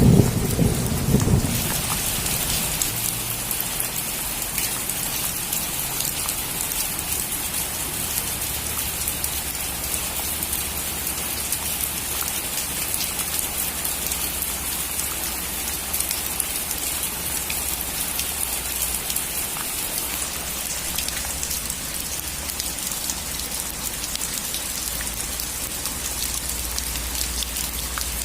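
Steady heavy rain drumming on a roof, a dense hiss of drops. A loud low thunder rumble dies away about a second and a half in.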